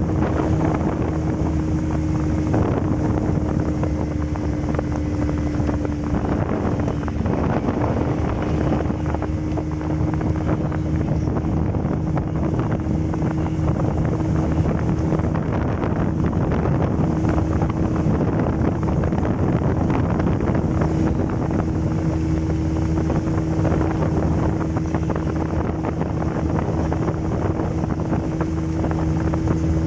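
Motorboat engine running steadily, a constant hum with wind buffeting the microphone.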